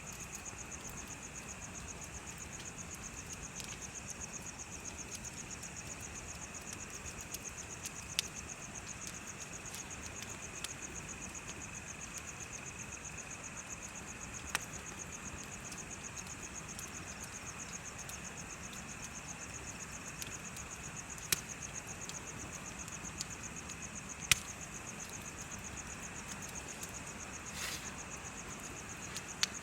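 Crickets trilling steadily and continuously over the low hiss of a bonfire, with a handful of sharp pops from the burning wood, the loudest a little past the three-quarter mark.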